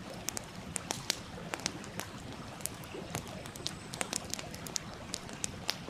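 Wood fire crackling with irregular sharp pops, several a second, over the steady rushing of a stream.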